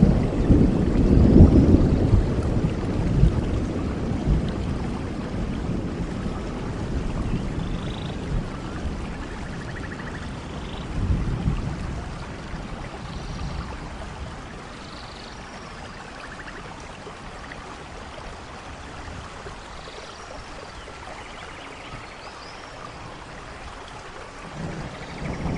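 Steady rain falling in a forest, with low rolling thunder at the start that dies away over the first dozen seconds and a fresh roll starting near the end. A few faint, short high chirps sound over the rain.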